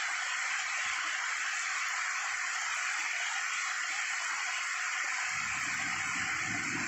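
Heavy storm rain falling steadily, an even hiss. A low rumble joins in about five seconds in.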